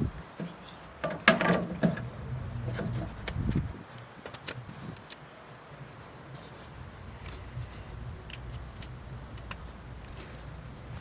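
Knocks and scraping of parts being handled, loudest about a second in, followed by faint scattered clicks.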